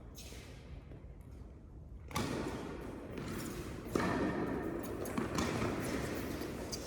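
Tennis ball struck by rackets during a rally, two main hits about two seconds apart and a lighter one after, each echoing in a large indoor hall.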